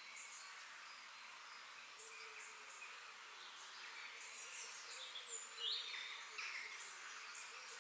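Forest ambience: many small birds chirping and calling in quick short notes and whistled glides over a faint steady insect buzz, the loudest calls about five to six seconds in.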